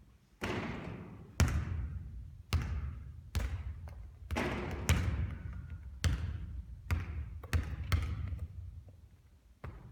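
A basketball bouncing and knocking on the court during three-point shooting: about a dozen sharp hits at uneven spacing, roughly one a second, each trailing off in a brief hiss.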